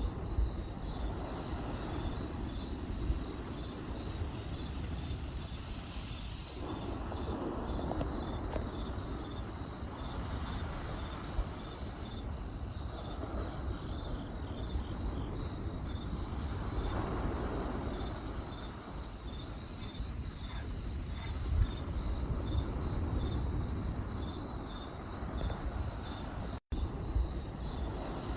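Crickets chirping in a steady pulsing trill over a campfire's low rumbling flame noise, which swells and fades, with occasional sharp crackles. The sound cuts out for an instant near the end.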